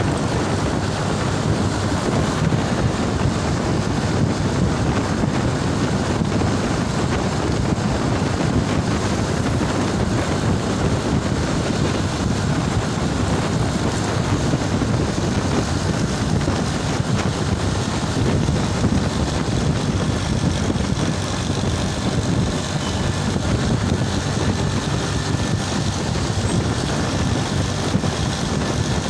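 Motorcycle riding along: a steady engine rumble mixed with wind on the microphone.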